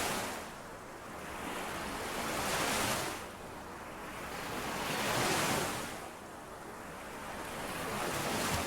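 Small lake waves washing in and out on the shore, one wash swelling and falling about every three seconds.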